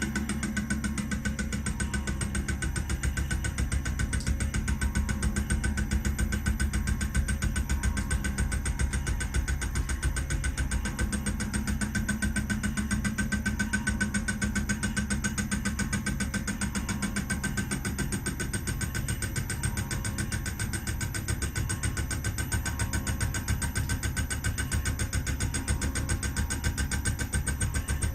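Homemade CNC milling machine running a cut in steel: a steady machine drone with a fast, even pulsing.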